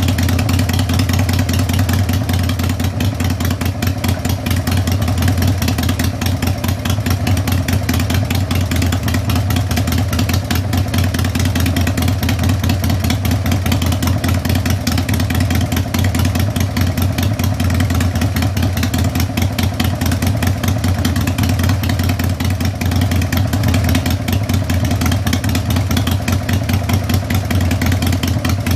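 Harley-Davidson Sportster's air-cooled V-twin, bored up from 883 to 1200 cc with Wiseco pistons, idling steadily with a low, even exhaust pulse.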